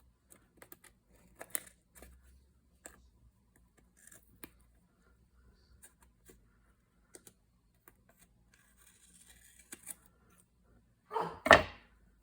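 Paper and craft materials being handled on a desk: scattered small taps, clicks and rustles of paper. A much louder sudden noise comes near the end.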